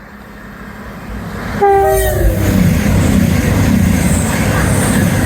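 A CrossCountry passenger train approaching and passing at speed, its rumble building up, with a short horn blast about one and a half seconds in whose pitch drops as it goes by. The loud rush and rumble of the passing train continues after the horn.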